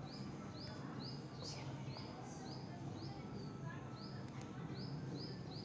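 A bird chirping faintly and over and over, about two short high chirps a second with a brief pause midway, over a steady low hum.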